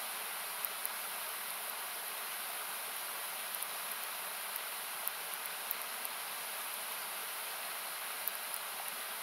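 Steady rushing of a river, thinned by equaliser filtering, with a wood campfire crackling over it in scattered sharp pops.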